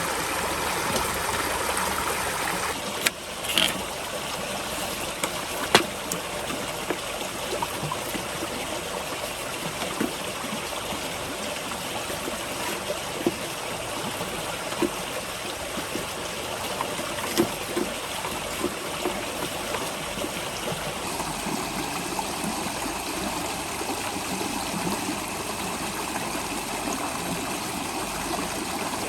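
Steady rush of flowing water, like a stream, with a few sharp knocks or clicks over it, the loudest about three and a half seconds and six seconds in.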